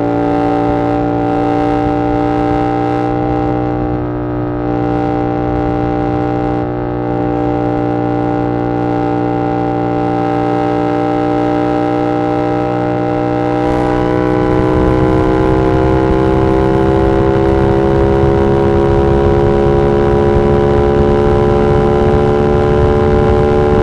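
Yamaha R7's 689cc parallel-twin engine through an SC-Project CR-T exhaust, running at steady revs while cruising. Over the last ten seconds the pitch slowly climbs as the bike accelerates in gear.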